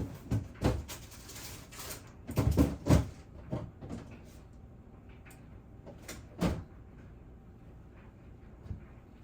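Kitchen knocks and clunks as things are handled, opened and shut, and set down. There are about half a dozen separate bumps, with the loudest a quick cluster of them about two and a half seconds in.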